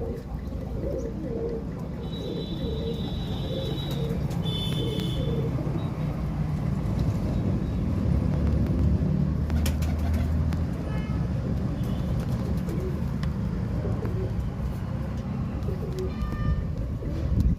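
Domestic pigeons cooing over a steady low rumble, with a few short high chirps.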